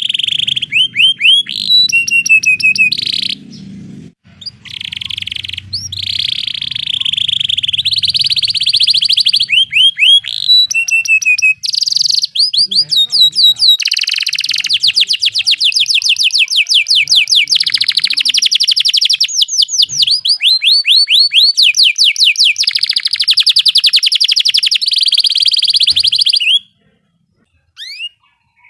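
Canary singing a long, fast song of rolling trills and rapidly repeated chipping notes, with short breaks between phrases and a brief stop near the end.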